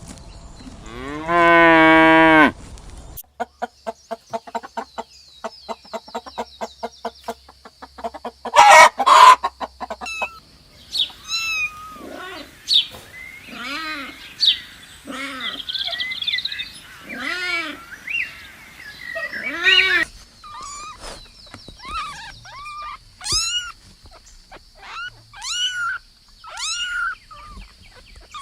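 A string of different animal calls: a long call that rises in pitch near the start, then a run of quick, even pulses, then arching calls repeated about once a second, and short high-pitched chirps in the last third.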